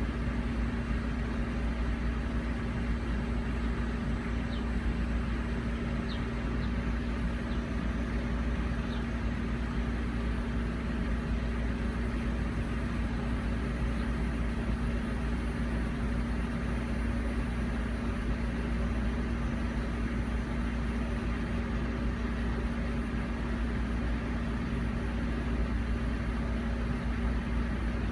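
Steady low mechanical hum with a constant tone, unchanging throughout. A few faint, short high chirps come between about four and nine seconds in.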